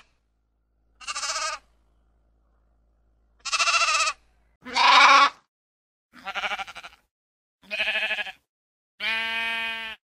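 Sheep bleating: six separate bleats a second or so apart. Some are higher and quavering, others deeper, and the last is the longest and steadiest.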